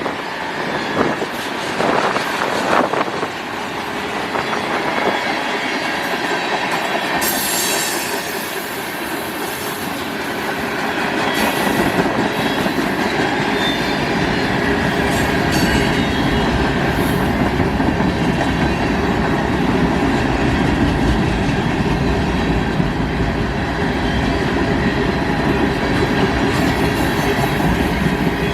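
Manifest freight train's cars rolling past, a steady rumble of steel wheels on rail with high-pitched wheel squeal, growing heavier partway through.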